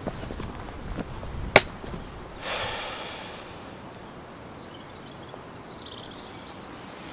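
A single sharp knock about a second and a half in, then a brief rustle. A bird chirps faintly near the middle.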